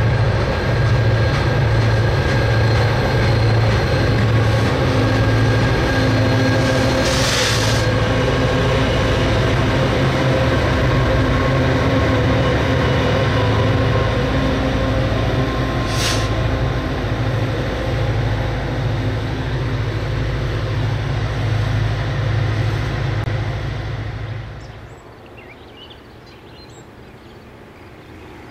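Heavy freight train passing close by: boxcars rolling, then Norfolk Southern diesel locomotives pushing as rear helpers, their engines giving a loud, deep, pulsing throb over the wheel rumble. A brief hiss about seven seconds in and a shorter one about sixteen seconds in; about 25 seconds in the sound drops abruptly to a faint background.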